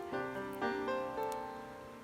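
Background piano music: a slow melody of struck notes, each fading after it is played.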